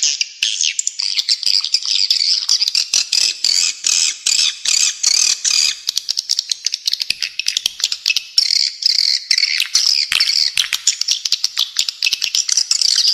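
Spiderhunter (pijantung) song mixed with swiftlet calls, played as a bird-training recording: a dense, unbroken stream of rapid, harsh high chirps and chatters.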